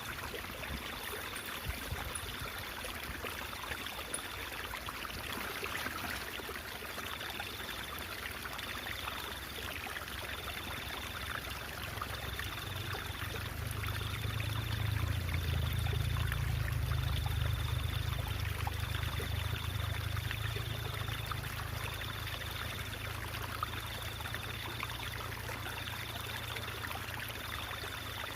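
Stream water trickling and babbling steadily. A faint high tone pulses along in a regular beat, and a low rumble swells up through the middle and fades back.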